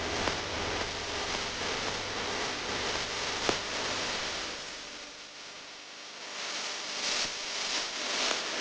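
Steady hiss that thins out briefly about five seconds in, with one sharp click about three and a half seconds in and a few soft rustles near the end.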